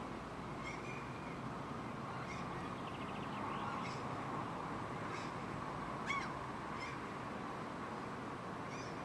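Birds calling outdoors: short, harsh calls repeat every second or two over a steady background noise.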